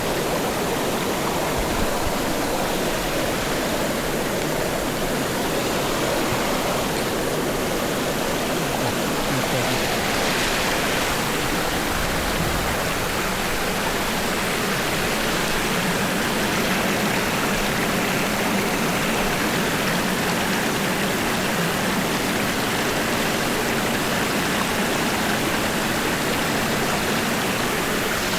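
Loud, steady rush of water, an even unbroken noise with no pauses.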